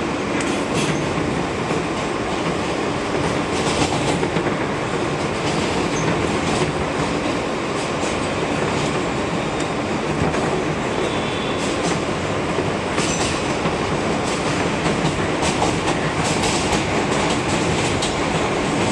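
R160B subway train running at speed, heard from inside the car: a steady rumble of wheels on rail with irregular clacks as the wheels pass over rail joints.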